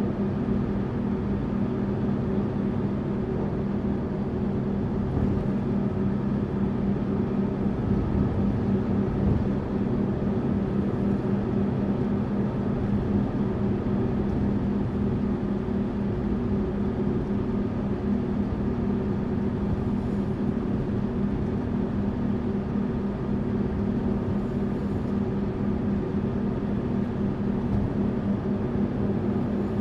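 Tourist coach heard from inside, its engine and road noise making a steady droning hum with a constant low pitch while cruising.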